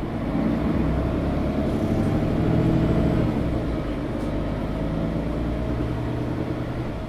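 Engine and drivetrain of a Mercedes-Benz O530 Citaro articulated bus heard on board while driving, getting louder over the first three seconds, easing a little about halfway, then pulling on with a slowly rising tone.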